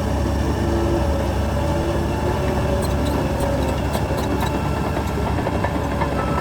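Heavy diesel earthmoving machinery runs steadily under load, with scattered metallic clanks and rattles from about halfway in. A reversing alarm starts beeping near the end.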